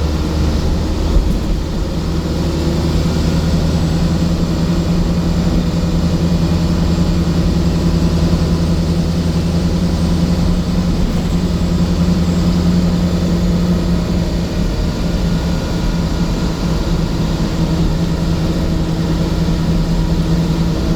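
Scania coach's diesel engine running at a steady, even drone, with a brief knock about a second in.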